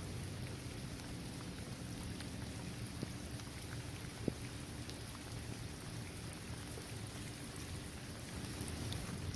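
Steady rain falling on a paved basketball court, trees and grass, a constant patter with scattered individual drop ticks and one sharper drop about four seconds in.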